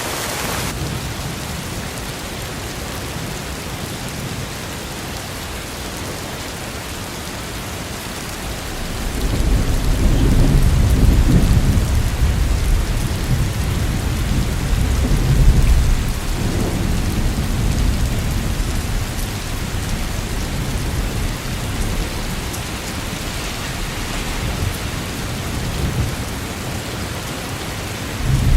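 Steady rain, with a long roll of thunder that swells about nine seconds in and rumbles on for several seconds, and another thunder rumble starting near the end.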